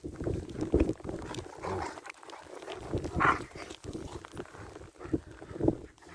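German Shepherds playing rough, making short, irregular vocal sounds, with one louder, higher call about three seconds in.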